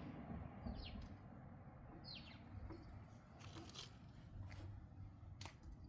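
Faint bird calls: two short down-slurred chirps about a second and a half apart, with a few faint clicks.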